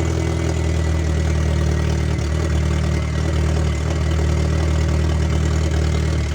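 Fiat Palio/Punto car engine idling steadily, an even low hum that holds the same speed throughout.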